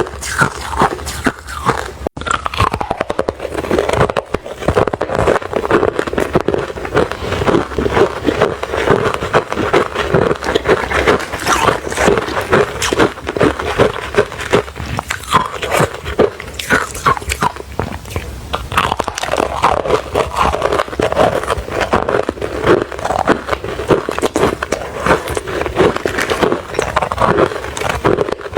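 Refrozen crushed ice being bitten and chewed, a dense, irregular run of crunching and cracking.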